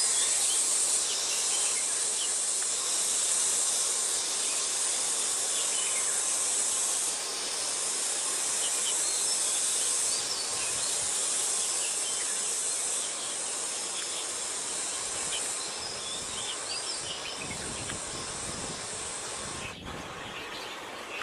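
High-pitched hissing insect drone that swells and eases every few seconds, with faint short bird chirps scattered through it. A sharp click comes near the end, after which the drone is quieter.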